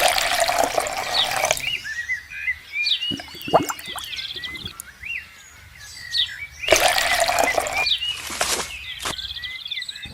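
Two loud bursts of water splashing, the first right at the start and the second about seven seconds in, each lasting a second or more, over birds chirping throughout.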